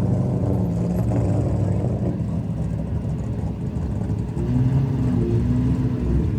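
Car engine running at low revs close by, its pitch rising briefly about four and a half seconds in.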